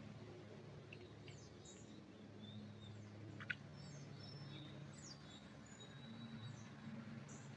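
Faint forest ambience: scattered short bird chirps and quick high sweeps over a low steady hum, with one sharp click about three and a half seconds in.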